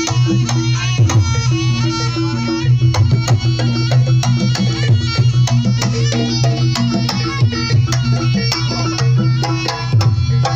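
Live East Javanese jaranan ensemble music: quick, steady hand-drum strokes over held pitched instrument tones, a dense traditional folk groove.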